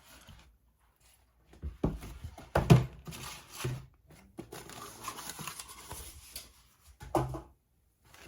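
A plastic model kit's box and parts being handled: several knocks, the loudest a couple of seconds in, with light rustling between them.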